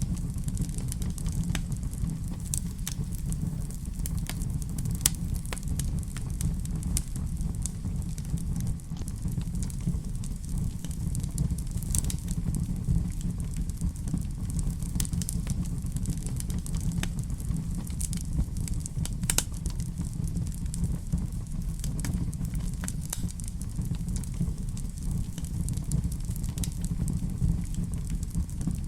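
Fireplace fire crackling: irregular sharp pops and snaps over a steady low rumble, with a few louder pops about 12 and 19 seconds in.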